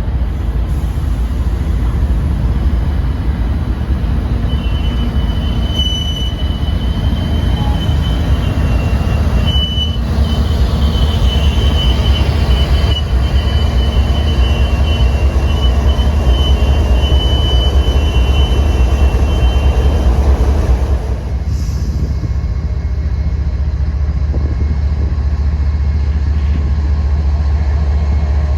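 Train rolling past with a steady low rumble and a high, thin wheel squeal from about four seconds in until about twenty seconds; then the squeal stops and the rumble eases slightly.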